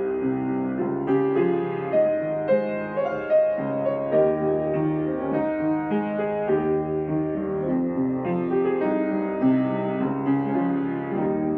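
Background music played on piano: a gentle melody of sustained notes with a steady pulse.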